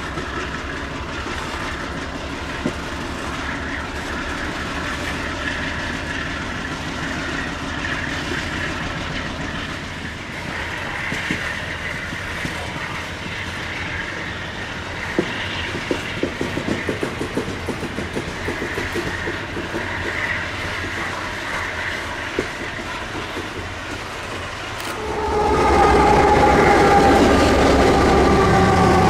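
Diesel freight train running past, a steady rumble with wheels clacking over rail joints. About 25 s in it gets much louder, with several tones sliding slowly down in pitch.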